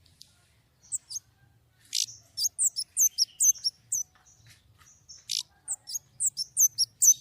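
White-rumped shama singing: a fast, clear run of sharp, high whistled notes, many sweeping downward in pitch, sparse at first and coming thick and loud from about two seconds in.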